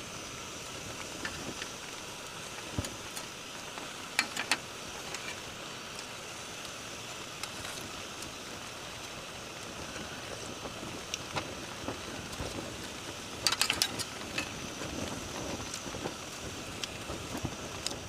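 Steady rain falling, with scattered sharp clicks: a couple about four seconds in and a quick cluster of them about three-quarters of the way through.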